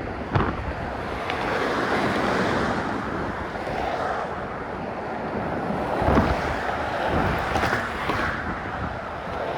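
Strong wind rushing over the microphone in gusts that swell and ease.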